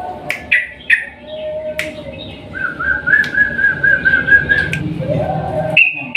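Yellow-vented bulbul singing loudly: sharp chirps, then a fast run of rolling, repeated notes about five a second through the middle over a lower held whistle, ending on a strong high note.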